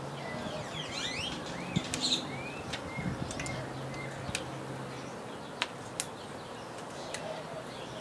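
Small birds chirping in short quick calls, some rising in pitch. Several sharp clicks are scattered through, over a faint low hum.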